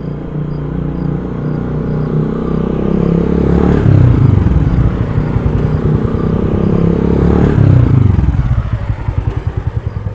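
An engine running, building up over the first few seconds and staying loud, then settling into a rapid even pulsing near the end.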